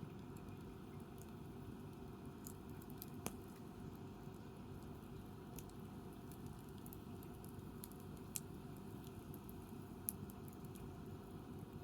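Wood campfire crackling softly: scattered small ticks and pops, with three sharper pops about three, eight and ten seconds in, over a steady low background rumble.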